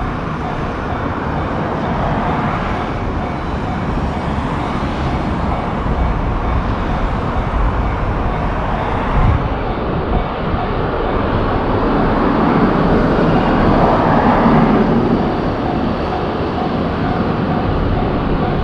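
Electric commuter train running through a Japanese level crossing: a steady loud rumble of wheels on the rails that swells about two-thirds of the way in, with the crossing's warning bell faintly ringing over it.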